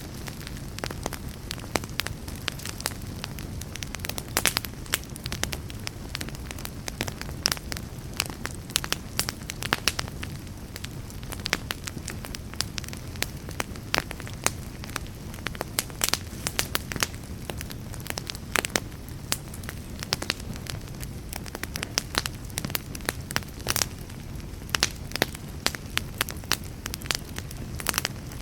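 Wood fire burning steadily, with frequent irregular sharp crackles and pops over a low, constant rumble of flames.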